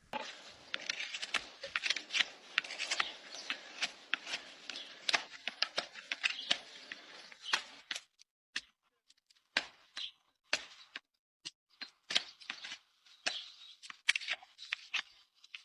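Hoof-trimming tools cutting and scraping the horn of a horse's hoof: short scraping strokes packed with sharp clicks for about the first half, then scattered single clicks and snips with quiet gaps.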